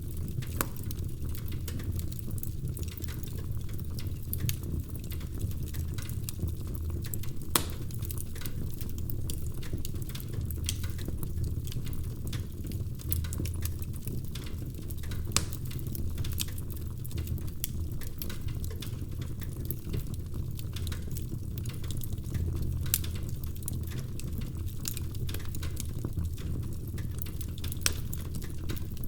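Wood fire burning in a fireplace: a steady low rumble of flames under constant irregular crackling, with a few louder sharp pops.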